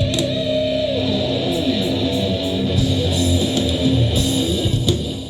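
Live rock band playing with strummed electric guitar and bass, the sound dropping off and fading out near the end.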